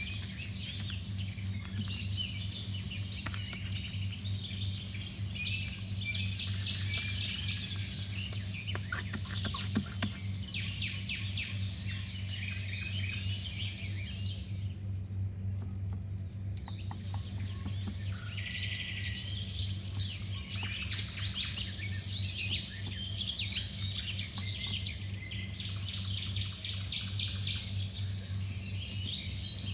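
Small birds chirping and twittering continuously, many short high calls overlapping, over a steady low hum. The chirping breaks off for about two seconds around the middle.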